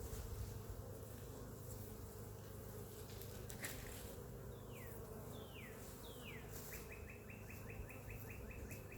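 Honeybees buzzing in a steady, faint hum. A bird sings over it: three short falling whistles midway, then a fast trill of repeated notes near the end.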